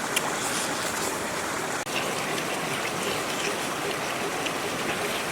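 Steady rush of flowing water, like a stream, with faint small ticks through it and a brief dropout about two seconds in.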